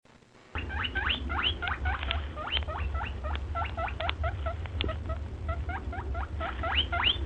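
A small animal squeaking rapidly: a quick series of short, high squeaks that sweep upward in pitch, about four a second, over a steady low hum.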